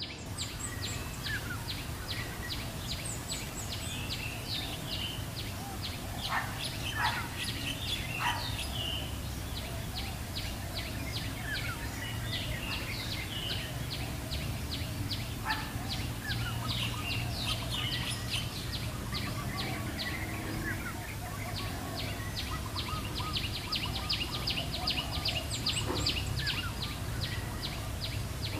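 Small wild birds chirping and calling in short, scattered notes and brief glides. Under them runs a steady rapid pulsing, about four beats a second, with a constant low rumble.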